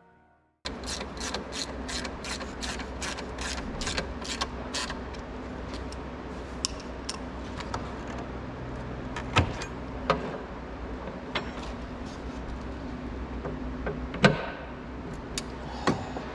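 Hand-tool work on a car's front end: a run of quick metallic clicks, about four a second, for the first few seconds, then scattered clicks and a few sharper knocks over a steady low hum.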